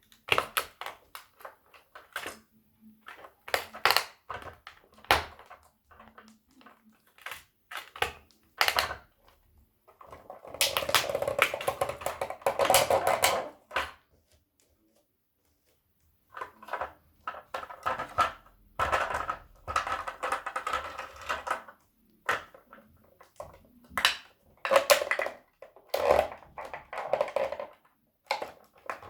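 A toy tow truck and toy car being crushed underfoot: scattered sharp cracks and clicks, with longer stretches of crunching and grinding in the middle and again near the end, and a short pause between.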